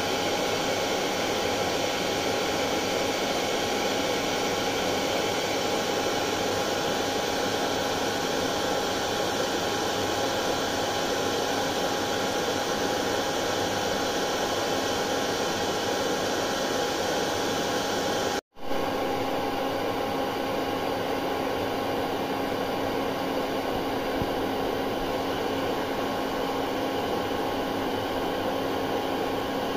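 Hair dryer running steadily: an even, loud rush of air with a motor hum. About two-thirds of the way through it cuts out for an instant, then carries on with a slightly changed hum.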